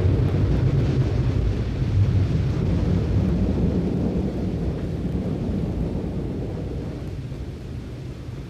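A low, steady rumble that slowly fades toward the end.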